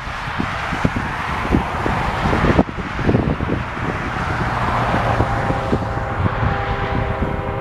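Wind buffeting the microphone over the rumble of approaching Norfolk Southern diesel locomotives. About five seconds in, the lead locomotive's multi-tone air horn starts sounding faintly and holds.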